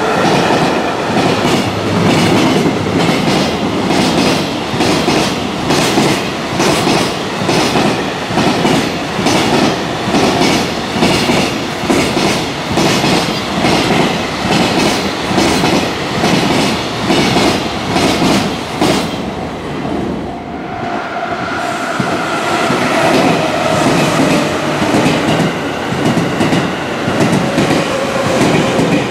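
Long freight train of container wagons passing at speed, its wheels clattering over the rail joints in a steady rhythm. The clatter eases off about twenty seconds in, then a passenger electric train comes through with a steady whine under its own wheel clatter.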